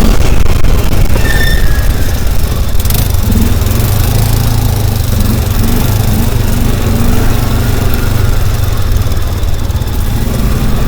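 Motor vehicle engine running steadily, with a loud low hum and road or wind noise over it.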